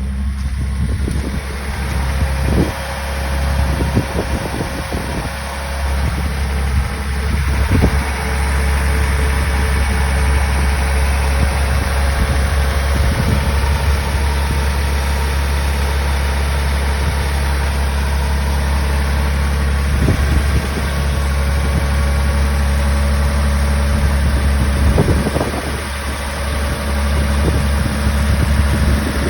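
Toyota Celica Supra's 5M-GE straight-six engine idling steadily and smoothly at a fast cold idle of about 1300 rpm, shortly after a cold start.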